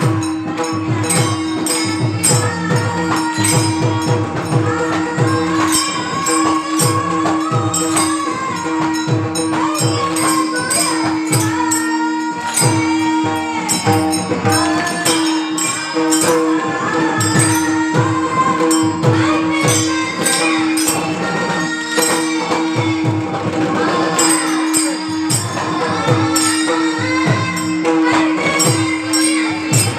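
Two women singing a Marathi devotional bhajan in thai chal style, accompanied by a pakhawaj drum and jingling hand percussion over a steady held drone.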